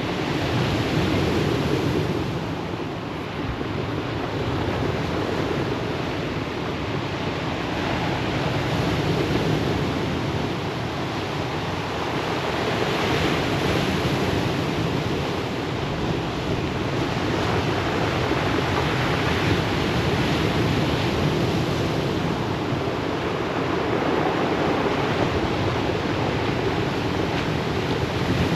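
Ocean surf breaking and washing on a pebble beach: a continuous rushing that swells and eases every few seconds.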